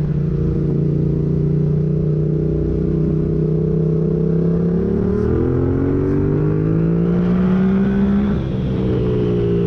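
2021 Yamaha MT-07's parallel-twin engine running through a full MIVV exhaust with no catalytic converter and no dB killer. It holds steady revs for about five seconds, then climbs in pitch under throttle. About eight and a half seconds in it briefly dips, then carries on at a lower pitch.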